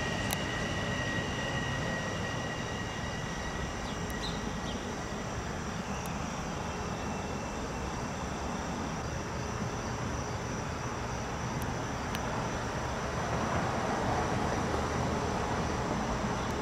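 Metro-North M7A electric commuter train approaching the station, a steady rumble that swells a little near the end.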